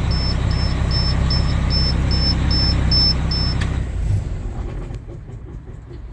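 Cummins ISM inline-six diesel engine idling steadily, with a warning beeper sounding about two and a half times a second. A click about three and a half seconds in stops the beeping and the engine is shut off, running down to a stop.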